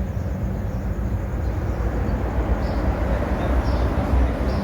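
Motorcycle engine running steadily while riding, with wind and road noise rushing over the microphone.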